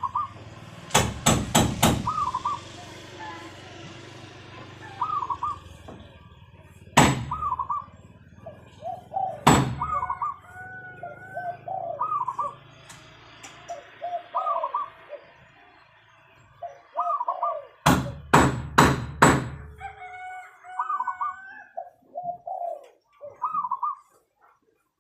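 Zebra dove (perkutut) cooing, repeating its short rolling phrases over and over. Loud, sharp knocks break in several times: a cluster of three or four about a second in, single knocks around seven and ten seconds, and another cluster of four around eighteen seconds.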